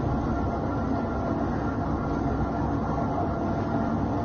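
Boat engine running with a steady low drone, mixed with a rushing noise.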